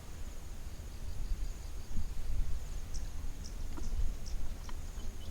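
Insects trilling steadily at a high pitch over a low rumble, with a few light clicks in the second half.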